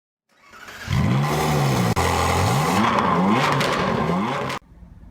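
Ducati 1299 Panigale S's Superquadro V-twin engine, breathing through an Akrapovic exhaust, being revved in a series of quick throttle blips, its pitch rising and falling several times before it cuts off suddenly near the end.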